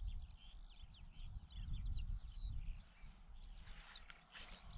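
Songbirds chirping and singing, many short quick notes overlapping, over a low rumble.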